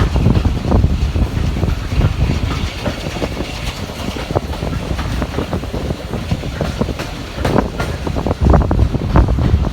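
Heritage railway carriage rolling along the track: a steady low rumble with the wheels clacking over rail joints, the clacks coming thicker near the end.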